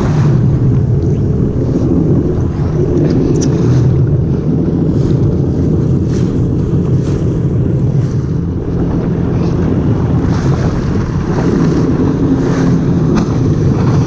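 Jet ski running at speed across open water: a steady engine drone heavily buffeted by wind on the microphone, with brief splashes of water spray throughout.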